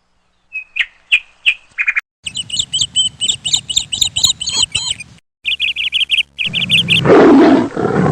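Small birds chirping in quick repeated notes, in several short bursts that break off abruptly. Near the end a louder, noisy sound without distinct notes takes over.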